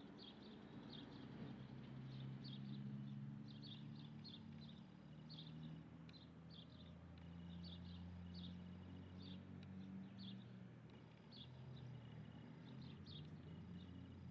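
Birds chirping faintly: short high chirps repeated irregularly, one or two a second, over a low steady hum.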